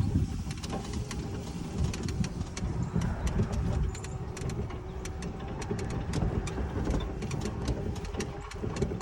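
A small vehicle's engine running with a steady drone while it drives over rough ground, with frequent rattles and knocks throughout.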